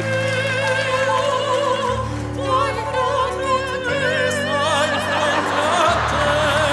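Operatic singing with a wide vibrato over an orchestral backing track, whose low chords change about every two seconds.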